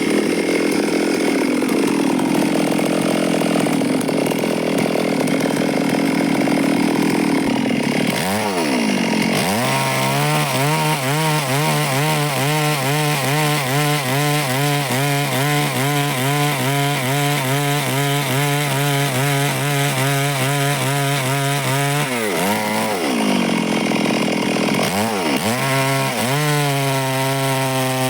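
Stihl chainsaw cutting through wood at high revs. Its engine pitch dips and climbs back a few times as it loads in the cut.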